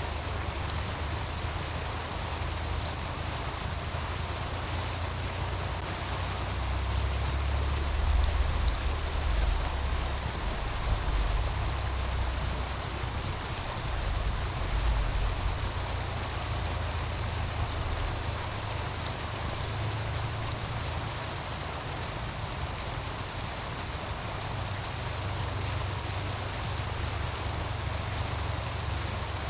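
Steady rushing hiss of a meltwater stream, with scattered light crackles from a wood fire. A low rumble, typical of wind gusts on the microphone, swells from about a quarter of the way in to about the middle.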